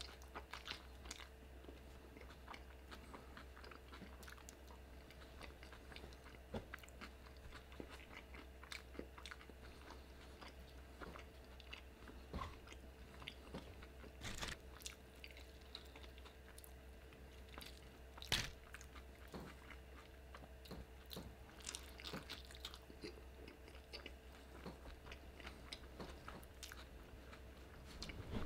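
Faint, close-up chewing and mouth sounds of a man eating a burrito: soft wet chewing with many small clicks and a few sharper, louder crunchy bites scattered through.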